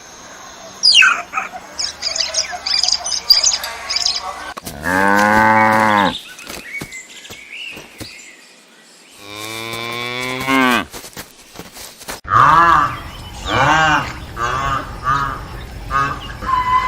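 A cow mooing twice, two long low calls about four seconds apart, after a few seconds of bird chirps; near the end a different animal gives a quick series of short calls.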